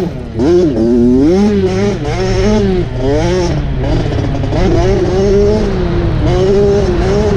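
Dirt bike engine revving up and down continuously, its pitch rising and falling every second or so over a steady low rumble.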